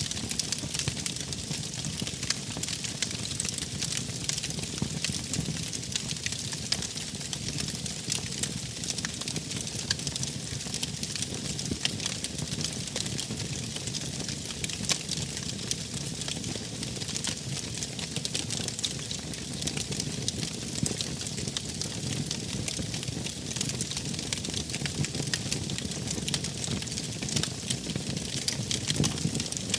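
Wood fire burning, with frequent small crackles and pops over a steady low rumble of the flames.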